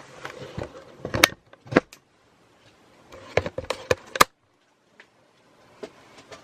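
Two short bursts of clattering knocks and clicks, about two seconds apart, from things being handled.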